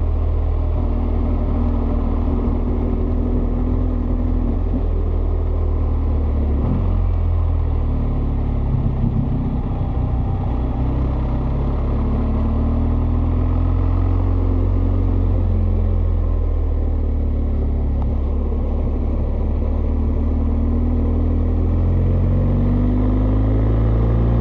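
BMW GS adventure motorcycle's boxer-twin engine running under way. Its note rises and falls with the throttle and dips briefly about seven and nine seconds in.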